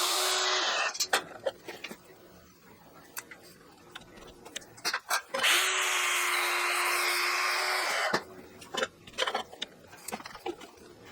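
A power tool runs at a steady speed, stopping about a second in and running again for two or three seconds in the middle, with clicks and knocks of handling metal parts in between.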